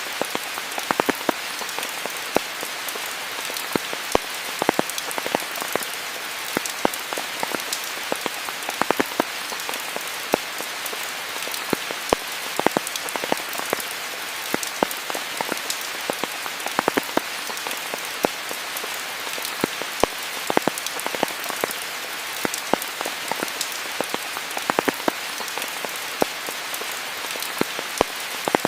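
Steady rain with a constant hiss, punctuated by frequent irregular sharp taps of larger drops striking close by.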